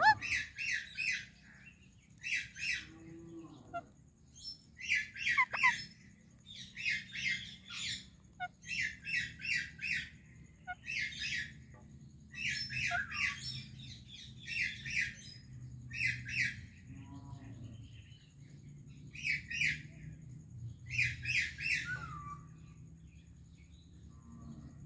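Pet parakeets giving harsh chattering calls, each a quick burst of three or four notes, repeated every second or two and stopping a couple of seconds before the end.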